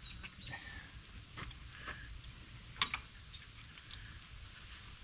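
Quiet handling of tools and parts during ignition wiring work: a few sharp clicks and taps, the most distinct about three seconds in and one right at the end, over a faint hiss.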